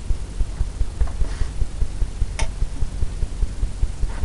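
Paintbrush working paint onto a stretched canvas, a quick, uneven run of low thumps, with one sharp click about two and a half seconds in.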